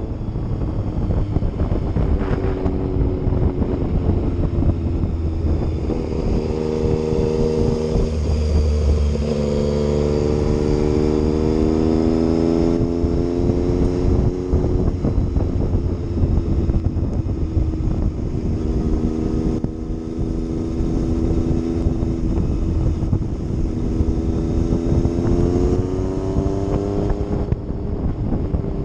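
Yamaha MT-09 motorcycle's three-cylinder engine running under way, its pitch rising and falling with the throttle through the ride, with a dip and climb about a third of the way in and another climb near the end.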